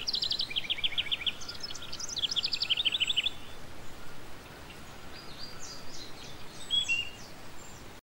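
A songbird singing two quick trilled phrases of rapid repeated notes, each about a second long and stepping down in pitch, then a few soft chirps near the end, over a steady background hiss.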